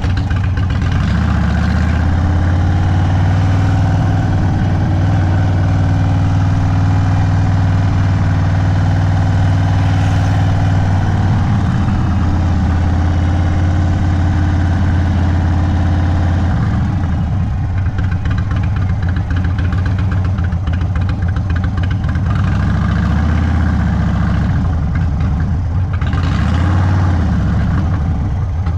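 Stage 2 Indian Sport Chief's Thunderstroke 116 V-twin running at low speed through a Sawicki Speed aftermarket exhaust: a steady low note for the first half or so, then rising and falling in pitch near the end.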